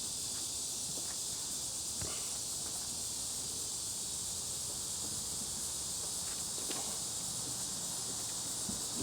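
Steady, high-pitched insect chorus droning without a break, with a few faint clicks over it.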